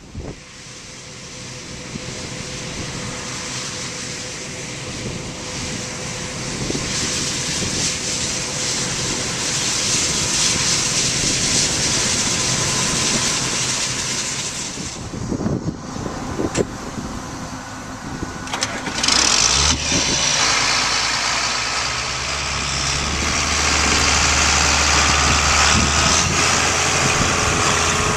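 Farm machinery engine running under a steady rushing noise. About two-thirds of the way through, a steady low drone comes in and the sound grows louder.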